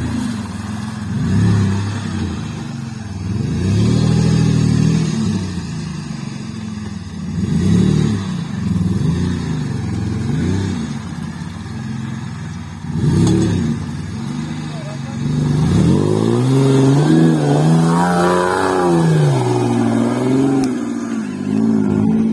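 Off-road vehicle's engine revving hard in repeated surges, its pitch climbing and dropping every second or two. Near the end it holds a longer, higher, wavering run.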